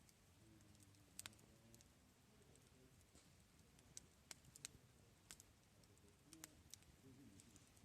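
Near silence broken by faint, sharp, irregular clicks and crackles, about a dozen of them, most bunched in the second half.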